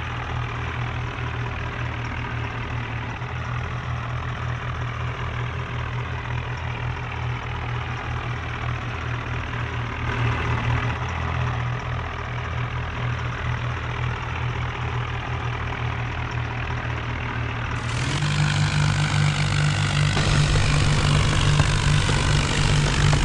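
Tractor engine running steadily with an even low pulse. About 18 seconds in, the sound jumps to a louder, brighter engine run.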